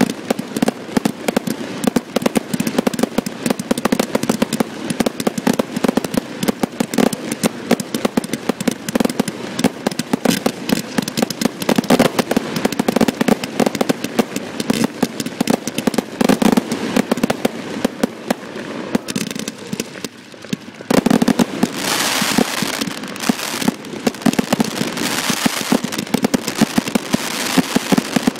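Aerial fireworks bursting overhead at close range in a rapid, continuous barrage of bangs. After a brief dip about twenty seconds in, a louder hissing crackle joins the bangs.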